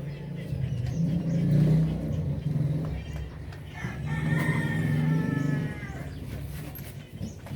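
A rooster crowing once about four seconds in, a drawn-out call of nearly two seconds over a low steady hum.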